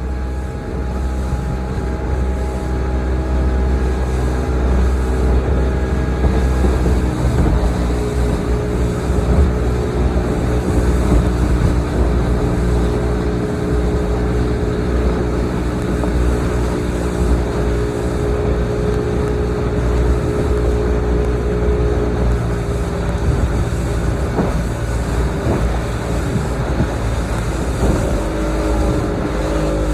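Motorboat engine running steadily under way, with a low rumble beneath it; the engine note rises near the end.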